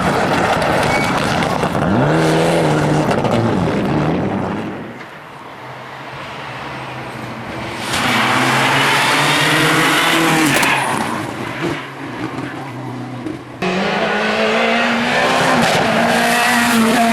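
Rally cars at full throttle on a special stage, engines revving up and down through the gears as they brake and accelerate past, with tyre noise on the loose surface. A new car arrives suddenly about two-thirds of the way through.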